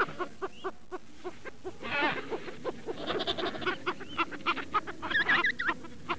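African penguins calling: a dense stream of short, nasal, repeated calls several times a second, from more than one bird at once. Near the end comes a run of quick wavering higher notes.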